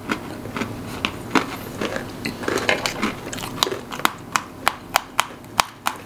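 A crunchy snack being bitten and chewed close to the microphone: a string of sharp, crisp crunches, about three a second.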